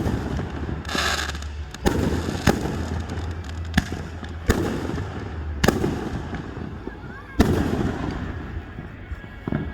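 Aerial fireworks bursting: sharp booms about a second apart, each trailing off into a rumbling echo. A crackling burst comes about a second in, and the loudest bang about seven and a half seconds in.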